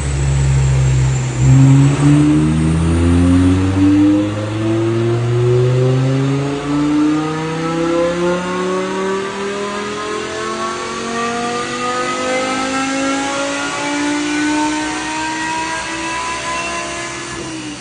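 BMW M5's S85 5.0-litre V10 on a dyno, pulling through one long run: the engine note climbs slowly and steadily in pitch for about seventeen seconds as the revs build under load, then drops away right at the end as the throttle is closed.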